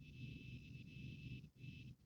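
Faint helicopter noise: a low rumble under a steady high whine, dropping out briefly twice.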